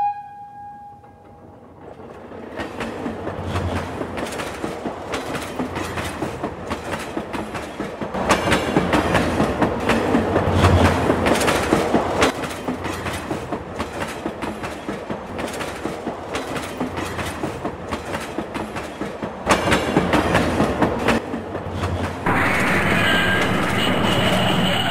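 Train running along the track, with a steady rhythmic clickety-clack of wheels over the rail joints, loudest about a third of the way in. A pitched tone fades out right at the start, and high steady tones join in near the end.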